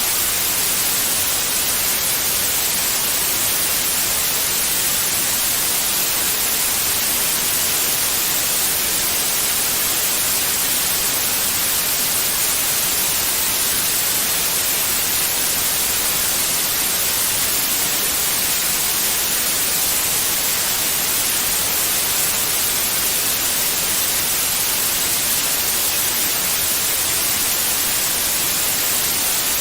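Steady white noise: an even, unchanging hiss across the whole range, strongest in the highs.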